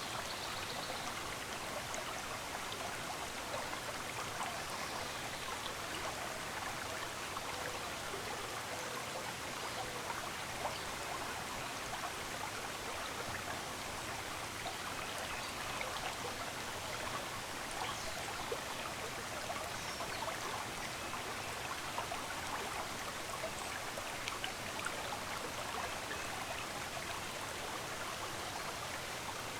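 A stream of running water, flowing steadily with a constant splashing, bubbling rush.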